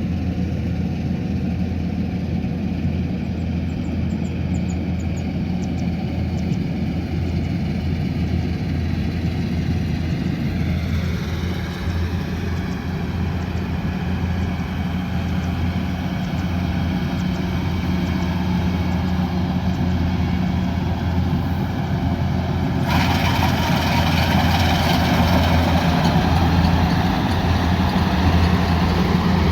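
Kubota combine harvester's diesel engine running steadily with a deep hum. About three-quarters of the way through, a louder, hissier rushing sound suddenly joins it.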